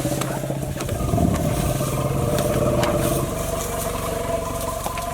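Safari jeep engine running steadily.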